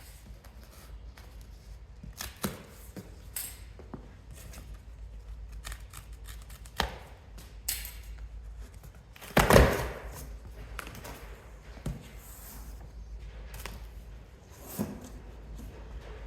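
A box being opened and its packaging handled: scattered clicks and knocks, with a loud crinkling rustle about nine and a half seconds in.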